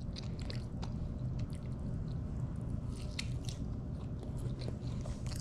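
A person chewing a mouthful of pizza close to the microphone: small wet mouth clicks and smacks over a steady low hum.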